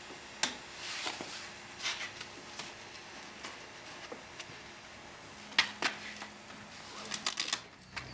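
Sharp clicks and knocks of buckles and straps being handled on a child's bike trailer harness: single clicks spaced a second or two apart, then a quick run of clicks near the end.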